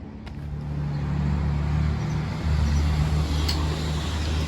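Street traffic: a motor vehicle's engine running close by with a steady low hum, swelling over the first second and then holding.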